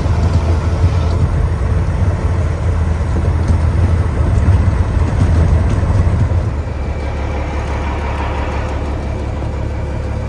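Dump truck's diesel engine running, a steady low drone that eases off and becomes quieter about six and a half seconds in.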